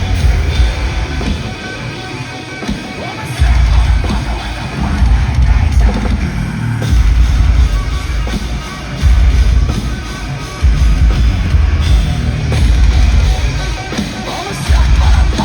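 A live metalcore band playing at full volume: distorted guitars and a drum kit, with heavy low-end hits that drop out for a moment several times in a stop-start pattern.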